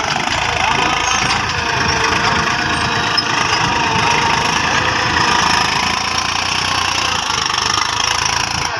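Tractor diesel engine running steadily, with a busy, rattling engine note.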